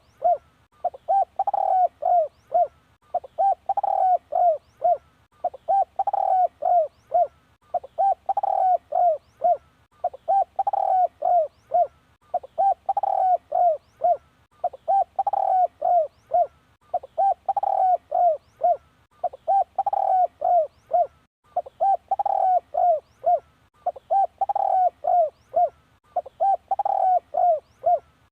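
Spotted dove cooing a phrase of several quick coos, repeated evenly about once every two seconds. It is a decoy call, played to lure wild doves.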